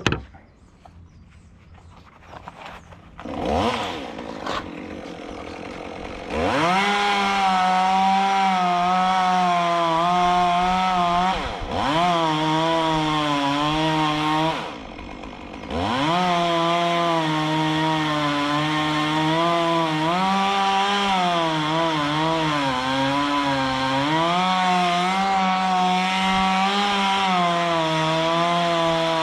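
Gas chainsaw coming up to full throttle a few seconds in and cutting through redwood, its engine pitch wavering under load. It eases off briefly twice, once for a moment and once for about a second, before cutting on.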